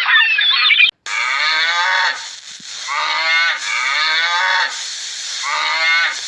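A cow mooing: four drawn-out moos one after another, starting about a second in. Before them, a different noisy, high-pitched sound cuts off abruptly.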